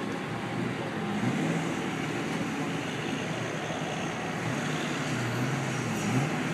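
Chevrolet Corvette's V8 running at low revs as the car rolls slowly, with a brief rise in revs near the end.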